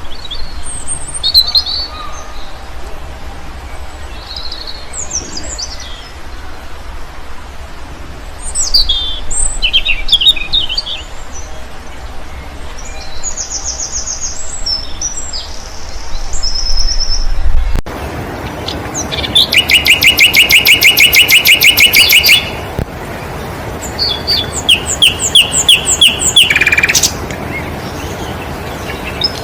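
Songbirds chirping and twittering in short high phrases over a steady background hiss. After an abrupt change of recording about two-thirds of the way through, a fast, loud trill of evenly repeated notes lasts about three seconds, followed by a run of shorter repeated notes.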